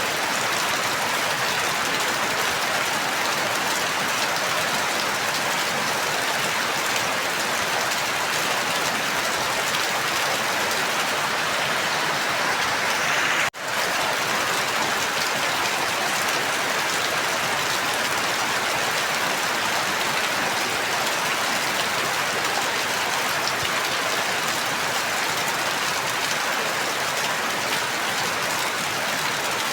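Steady rain falling, an even hiss of drops. The sound cuts out for a split second about thirteen and a half seconds in, then carries on unchanged.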